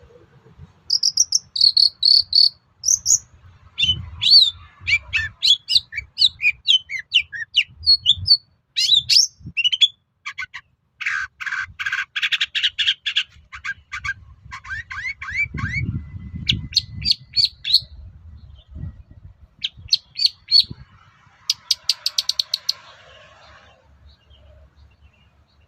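Long-tailed shrike singing a fast, varied song of whistled chirps, quick trills and harsh rasping chatter, stopping near the end.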